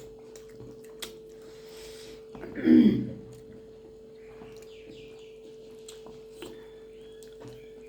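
A steady hum with a few faint clicks; about three seconds in, one short, loud vocal sound that falls in pitch.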